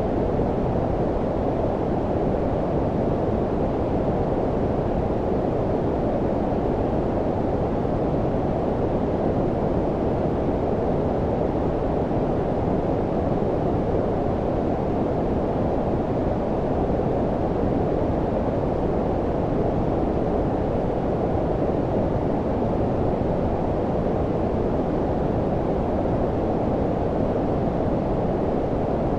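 Steady, low-pitched rushing noise: white noise with the highs rolled off above about 1 kHz, much like brown noise. It does not change.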